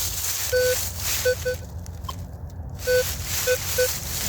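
Metal detector giving short, mid-pitched target beeps over a buried signal, one longer tone followed by quick double beeps as the coil is swept back and forth. Under the beeps is a steady rustling hiss.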